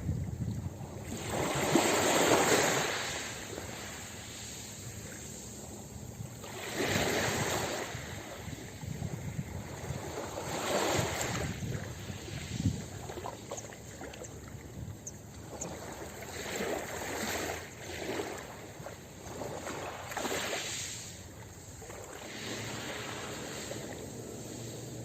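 Ocean waves breaking on a beach: surf swells and washes back every few seconds, the biggest wave about two seconds in and smaller ones after.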